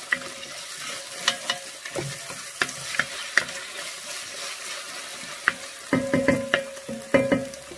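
Chopped onion and carrot sizzling in a Dutch oven over fairly strong heat while being stirred, a utensil clicking and knocking against the pot every second or so, with a quick run of ringing knocks near the end.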